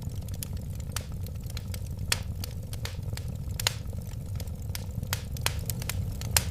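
Wood fire crackling: irregular sharp pops and snaps, a few louder than the rest, over a steady low rumble of burning flames.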